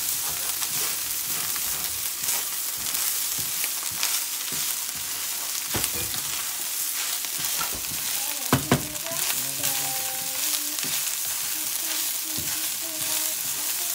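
Fried rice sizzling steadily in a hot pan while it is stirred, with two sharp knocks of the stirring utensil against the pan about eight and a half seconds in.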